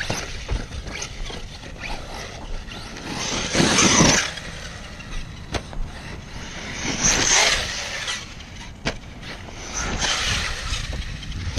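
Electric RC car driving over rough dirt, getting louder as it comes close about every three to four seconds, with a few sharp knocks.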